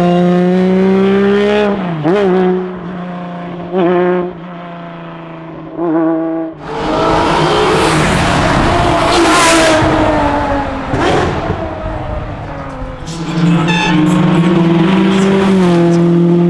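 Classic racing car engines on a hillclimb. An engine holds a steady note, blipped sharply three times about two seconds apart. Then a loud car goes past at full throttle for several seconds, before a steady engine note returns near the end.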